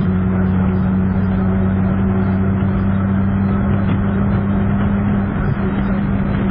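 Car engine droning steadily at high highway speed, around 170 km/h, heard inside the cabin with road and wind noise.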